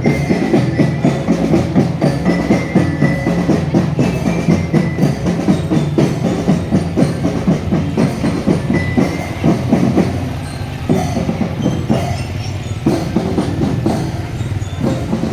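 Marching drum band playing: snare and bass drums beating a fast, dense rhythm, with a few high melodic notes over it. The playing gets a little quieter about ten seconds in.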